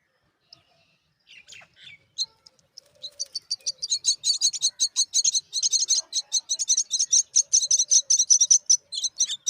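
Myna chicks begging: a few scattered chirps, then from about three seconds in a fast, steady run of high chirps, about five or six a second.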